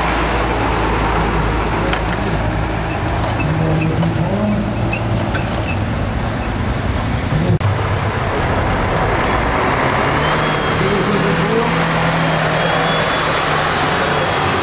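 Heavy truck's diesel engine running at low revs, with the engine note changing about two-thirds of the way through.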